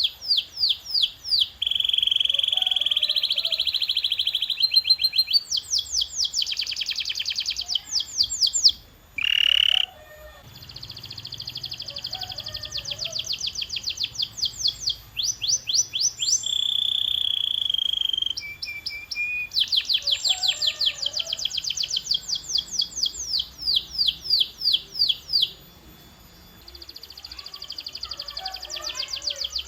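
Canary singing a long song made of fast runs of rapidly repeated notes and held rolls, switching to a new phrase every second or two, with a brief break about nine seconds in.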